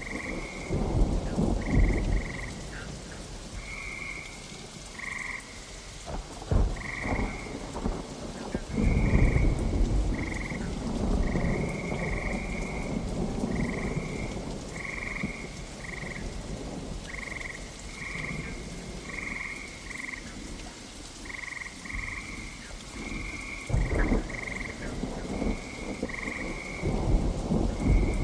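Steady rain with frogs calling in short, repeated notes about once a second, and rolls of thunder rumbling in and out, the strongest about nine seconds in.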